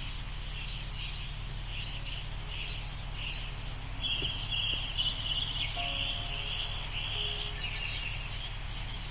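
Birds chirping, thickest from about four to seven seconds in, over a steady low hum.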